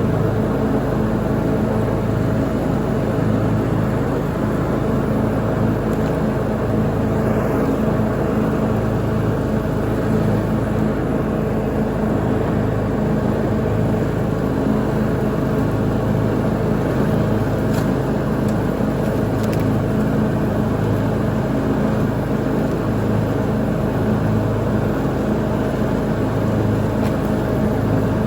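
Lawn mower engine running steadily at a constant speed, heard close up from the mower itself.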